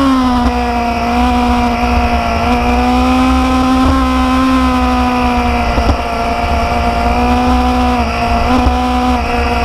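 Motorcycle engine running at a steady cruising speed, with a low rumble underneath. Its pitch drops at the very start, then holds nearly level with a few small dips.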